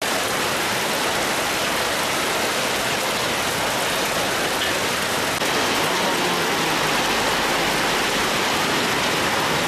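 Heavy downpour with hail, a steady dense hiss of rain and hailstones pelting down, a little louder from about halfway through.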